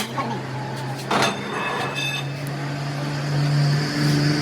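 A workshop machine running with a steady low hum, with a sharp knock about a second in and a higher whine joining near the end.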